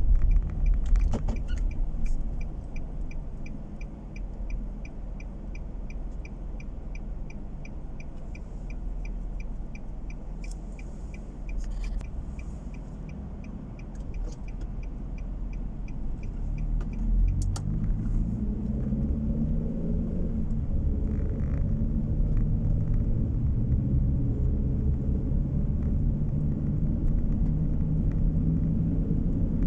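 Inside a car: a steady low engine and road rumble with the turn-signal indicator ticking about twice a second. Midway the ticking stops and the engine pulls away, its pitch rising in steps as it shifts up through the gears.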